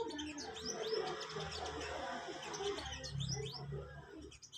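Small songbird chirping: a rapid run of short, high chirps that sweep quickly in pitch, several a second, busiest near the start and again around three to four seconds in.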